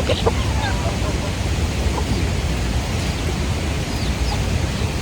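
Steady hiss of rain, with a few faint chicken chirps over it.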